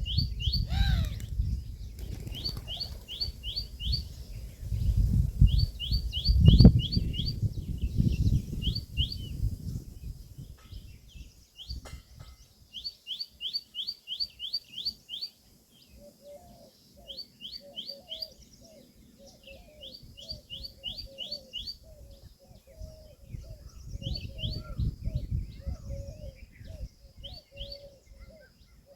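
Birds calling: quick runs of short, high chirps repeat every second or two, and from about halfway a steady series of quicker, lower notes joins them. A low rumble, like wind on the microphone, is heavier in the first half.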